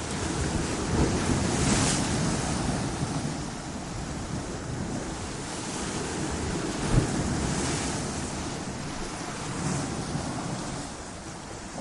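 Ocean surf breaking against coastal rocks: a continuous rush of water that swells as each wave comes in, with a sharp crash about seven seconds in.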